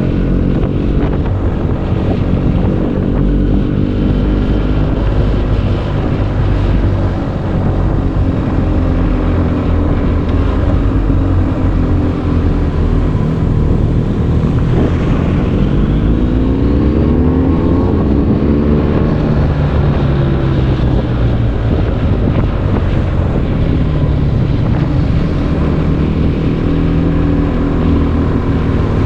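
BMW R 1250 GS boxer-twin engine running through an Akrapovic exhaust while being ridden hard up a mountain pass. The engine note rises and falls repeatedly as the rider accelerates and shifts through the bends, with a series of rising revs in the middle. Wind noise rushes over the microphone throughout.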